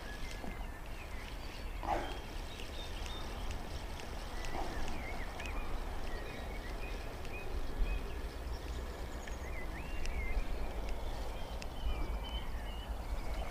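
Small birds chirping, many short rising and falling calls scattered throughout, over a steady low rumble.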